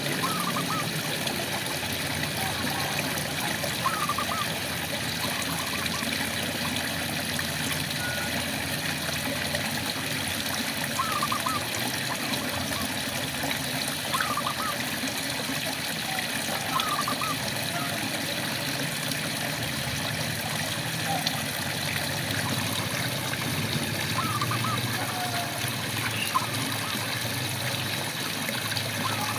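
Steady rain pattering and trickling, with frogs calling every few seconds in short clusters of quick, rising chirps.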